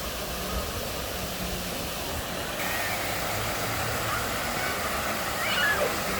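Steady city street noise, a hum of traffic, with no clear voices.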